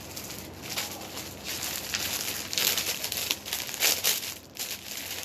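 Clothing being handled, with a run of irregular crinkling rustles.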